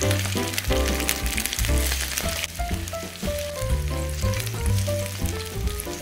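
Battered oyster pancakes sizzling and crackling in hot oil in a frying pan, over background music with a bass line.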